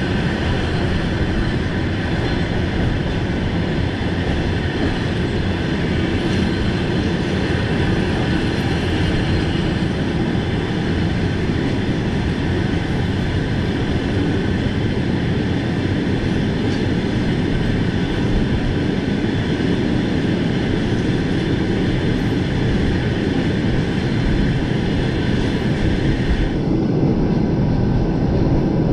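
Passenger train carriage rolling along the track after leaving a station, heard from inside by the window: a steady rumble of wheels on rails with a hiss above it. The hiss in the upper range cuts off suddenly about two seconds before the end.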